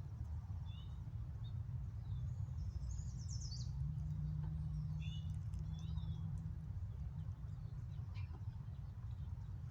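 Small birds chirping: scattered short chirps and one quick trill about three seconds in. Under them runs a steady low rumble of background noise.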